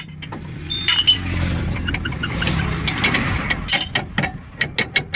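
A vehicle engine running steadily, with sharp metal clinks and taps from tools on the leaf spring. The clinks are sparse at first and come several a second near the end.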